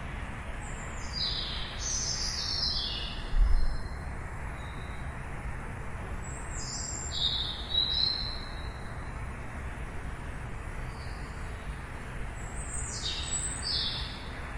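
Songbirds singing short phrases of quick chirps that fall in pitch, three times, over a steady low rumble of distant traffic. A short low thump about three and a half seconds in.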